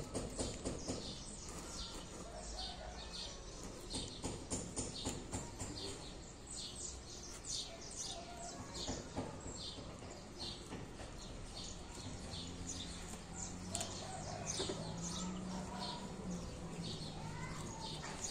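Small birds chirping: a steady run of short, high chirps, several to a second, all the way through.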